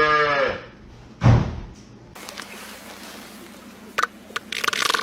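An animal's drawn-out call that rises and falls in pitch and ends just under a second in, followed by a single loud thump; near the end come a few sharp clicks and a short noisy burst.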